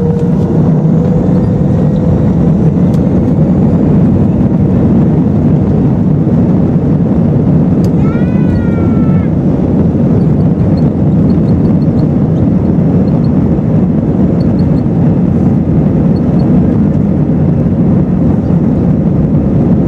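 Cabin noise of an Airbus A320-214 with its CFM56 engines running: a loud, steady rumble heard from inside the cabin. About eight seconds in, a short high squeal rises and falls once over it.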